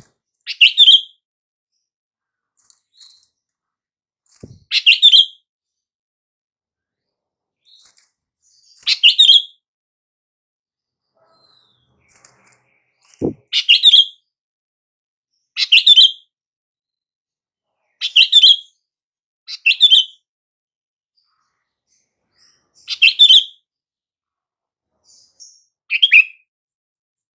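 Sooty-headed bulbul (kutilang) calling: about nine short, bright chirping phrases, each repeated every two to four seconds with silence between them. There is one sharp click about halfway through.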